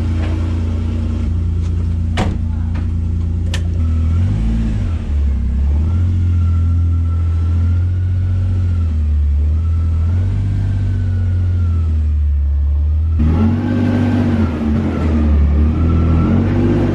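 Utility vehicle engine running under load as it pulls on a chain, with a faint whine above it. The engine speeds up about four seconds in and again near the end.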